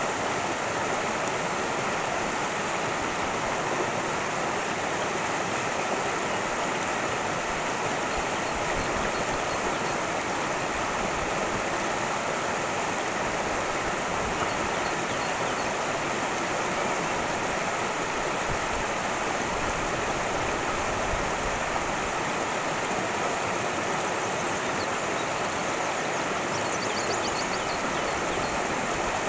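Cascading stream: water rushing steadily over its bed in an even, continuous rush, with a few faint high ticks near the end.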